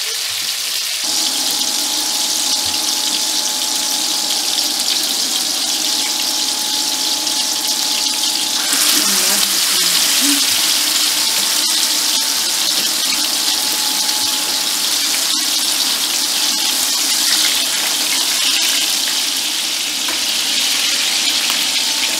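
Chicken kebab patties shallow-frying in hot oil in a frying pan: a steady sizzle, louder from about nine seconds in, with a faint steady hum underneath.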